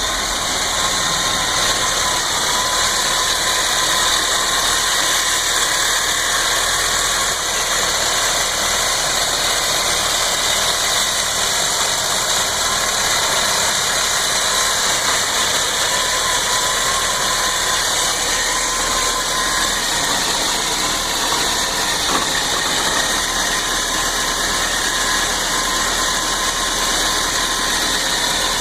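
Toyota Land Cruiser FJ62's 4.2-litre inline-six petrol engine idling steadily, with a strong hiss over it. The owner calls it a rough idle and doesn't know the cause.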